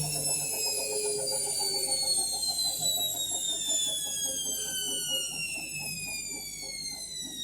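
Indesit My Time washing machine winding down after its final spin: the motor's whine falls steadily in pitch as the drum slows, over a faint rhythmic pulse from the turning drum.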